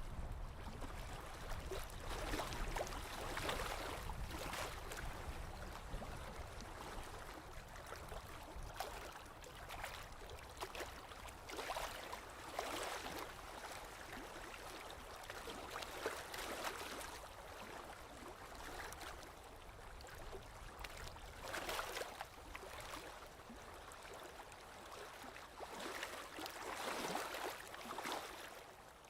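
Small lake waves lapping on the shore, with irregular splashing swells every few seconds over a low steady rumble.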